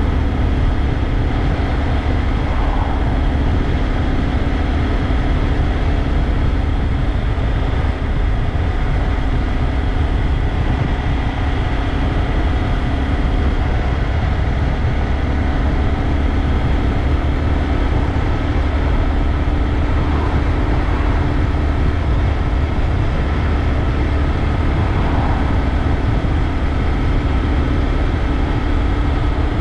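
Honda Grom's single-cylinder engine running steadily while the bike is ridden, with a heavy wind rush on the microphone.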